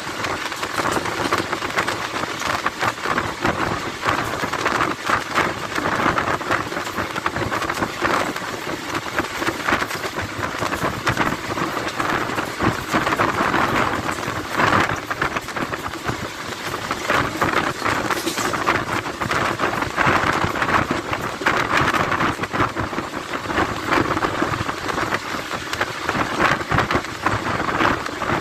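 Wind rushing past the open door of a fast-moving passenger train, mixed with the steady running noise of the coach's wheels on the rails. Dense, loud and unbroken, with a constant fine rattle.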